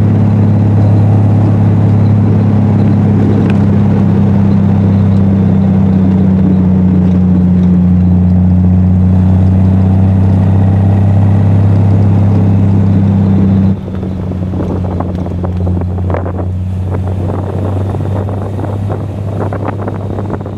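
Triumph TR6 straight-six with a Monza exhaust, droning steadily at a constant engine speed. About two-thirds of the way through, the sound drops sharply quieter and turns rougher, with wind buffeting.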